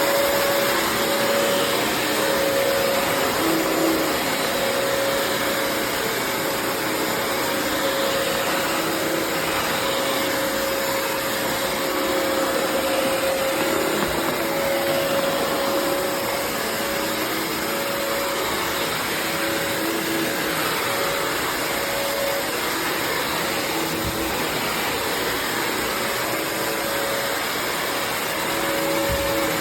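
Bissell CrossWave HydroSteam Pet wet-dry floor cleaner running steadily: a continuous motor whine over a rush of suction.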